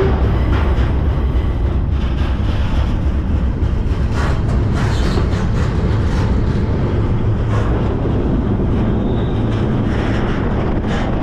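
Freight train rolling, heard from aboard a car: a steady heavy rumble from the wheels and cars, with brief clanks and rattles every second or two.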